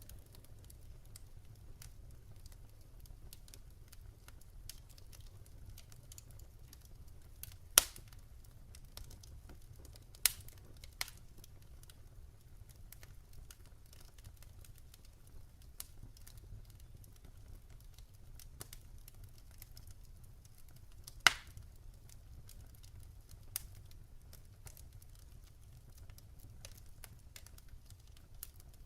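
Logs burning in a fireplace: a faint steady low rumble of flames with light crackling and five sharp pops spread several seconds apart.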